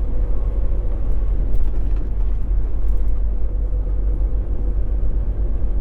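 Semi truck's engine and road noise while driving, a steady low rumble with a faint steady hum.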